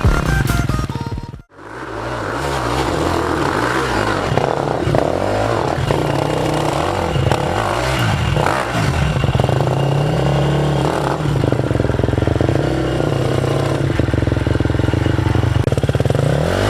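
Electronic music stops abruptly, then a dirt bike engine runs loud and steady, revving up and down over and over as the bike is ridden.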